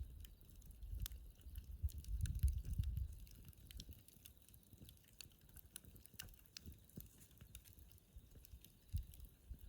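Wood fire burning in a fire pit, crackling with scattered small pops, and a low rumble about two to three seconds in.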